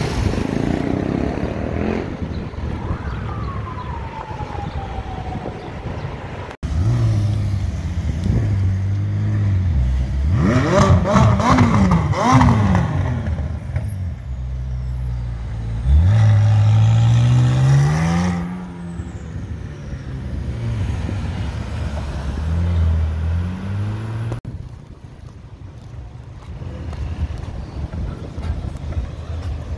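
Supercar engines in three short clips. First a Mercedes-AMG GT's twin-turbo V8 drives by. Then a McLaren's twin-turbo V8 is blipped several times and revved up in one long rising pull, the loudest part. Last, a Bentley Continental GT drives by, more quietly.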